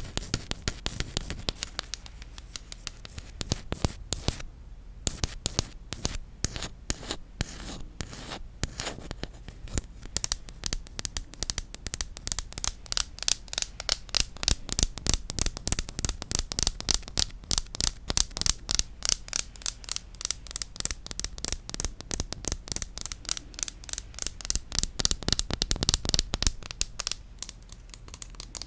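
Rapid tapping on wooden objects: sharp clicks several a second with a short lull about five seconds in.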